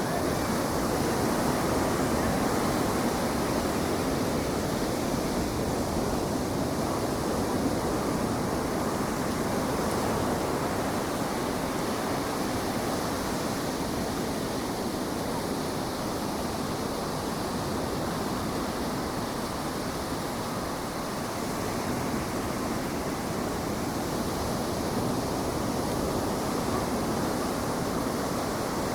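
Ocean surf breaking on the beach: a steady wash of waves with wind on the microphone.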